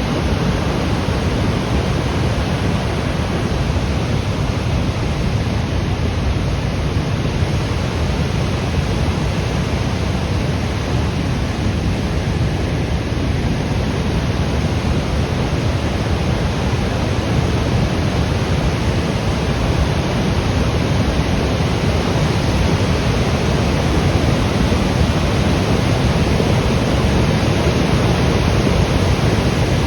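Flash-flood water carrying mud and debris rushing down a road, a loud steady rush that grows slightly louder in the last third.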